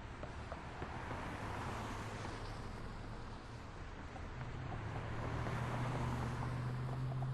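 City street traffic: a steady wash of passing cars and tyre noise, with a vehicle's low engine hum coming in about four seconds in and holding as the traffic swells slightly.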